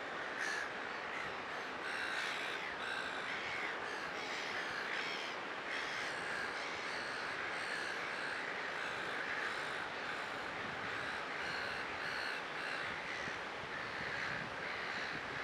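Birds calling over and over, about two calls a second, over the steady noise of breaking surf.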